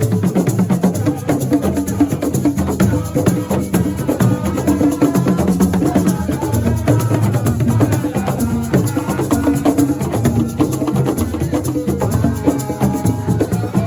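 Percussion-led live music: drums played in a dense, steady rhythm with sharp wood-block-like clicks and a shaker, with some pitched parts over it.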